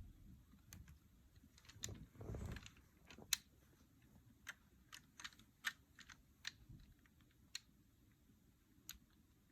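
Faint, irregular clicks and taps of plastic LEGO bricks being handled and pressed together, a dozen or so over the stretch, with a soft low rustle about two seconds in.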